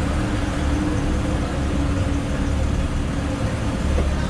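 Porsche 911 (997) flat-six engine idling steadily, heard from inside the cabin.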